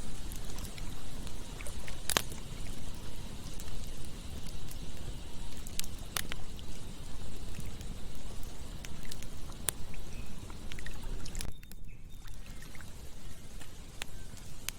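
Campfire burning with a steady low rush, broken by a few sharp, scattered crackles and pops; the hiss drops away briefly a little before the end.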